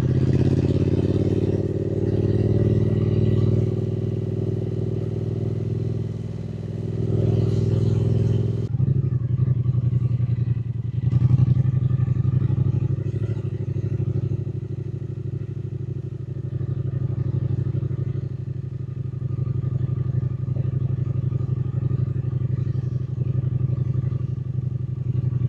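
Triumph Speed Twin 900's parallel-twin engine running on the move, its pitch rising and falling with the throttle. About nine seconds in the sound changes abruptly and the engine then runs at a steadier pitch.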